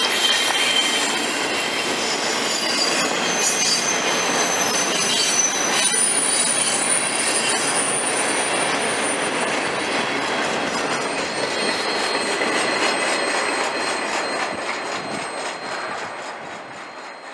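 Double-stack intermodal freight train rolling past: steady rumble and rattle of the container well cars on the rails, with thin high-pitched squeals from the wheels. The sound fades away near the end as the last car passes and moves off.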